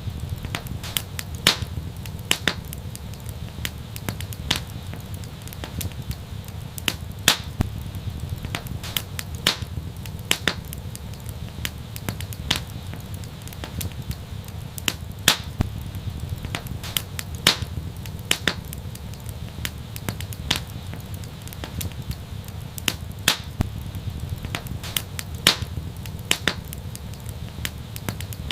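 Wood fire burning in a fireplace: a steady low rumble of flames with sharp, irregular crackles and pops every second or so.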